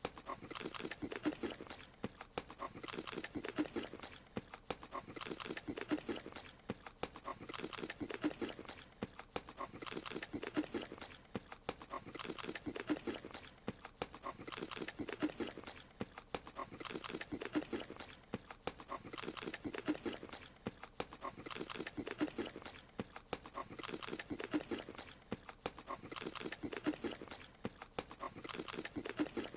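Rapid wet munching and smacking, the eating sound of a small cartoon creature chewing a strawberry, in clusters that repeat about every two seconds as a loop.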